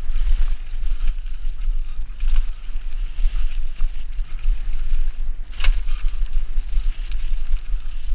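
Mountain bike rolling along a trail, with a constant low rumble and hiss from the riding and a few rattles, and one sharp knock about five and a half seconds in.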